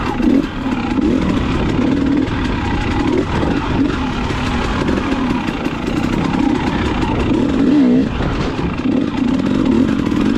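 KTM dirt bike engine running under way, its pitch rising and falling as the throttle is worked, with a low rumble from wind and terrain underneath.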